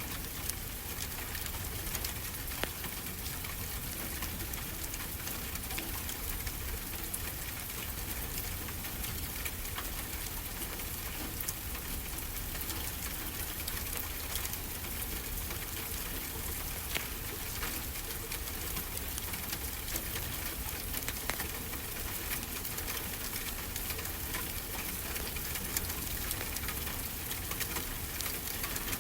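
Wood fire crackling, with many small sharp pops, over a steady wash of ocean surf.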